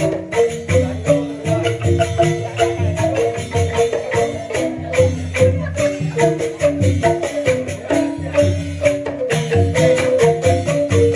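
Balinese joged bumbung gamelan music: bamboo xylophones playing a fast, continuous run of struck notes in an interlocking pattern.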